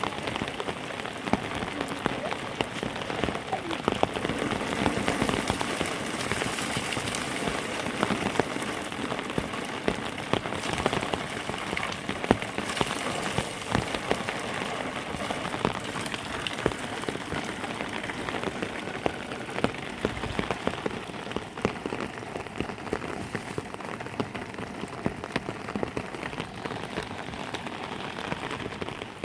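Heavy rain falling steadily, with a constant hiss and many sharp individual drop impacts on a nearby surface.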